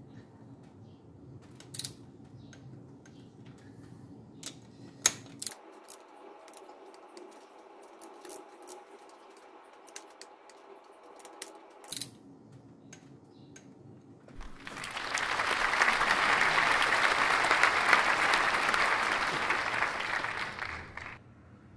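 Scattered sharp metallic clicks and taps of a hand wrench working the 13 mm nuts on the supercharger. About two-thirds through, a loud steady hiss swells in, lasts about six seconds and cuts off.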